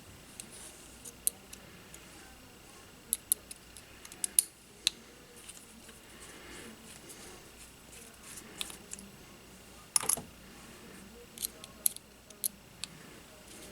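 Workbench sounds from small tools and drone parts being handled: scattered sharp clicks and light taps, some in quick clusters, over a faint steady background.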